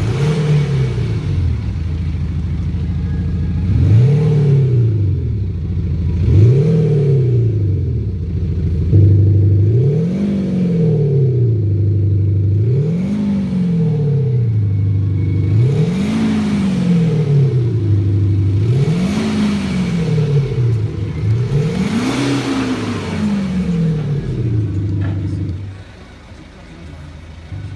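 BMW X4 with a Kufatec Sound Booster, a speaker-based sound generator, playing a synthetic engine note that rises and falls with repeated throttle blips, about eight revs roughly three seconds apart. The note has no highs above a low cut-off, and it stops near the end.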